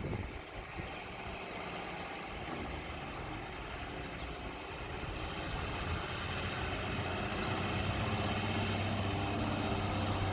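Bulldozer's diesel engine running steadily, growing louder about two-thirds of the way in.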